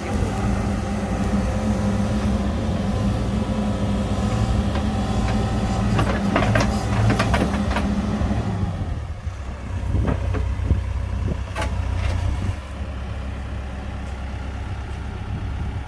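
Diesel engine of heavy earthmoving machinery running steadily, with scattered clanks and knocks. Just past halfway the engine drops to a lower, quieter note.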